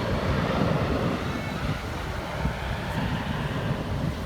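Aircraft engine noise dying away as the plane moves off, leaving a low rumble.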